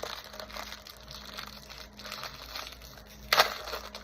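Plastic Twinkie snack wrapper crinkling as it is handled, in scattered small crackles, with one loud sharp crinkle near the end.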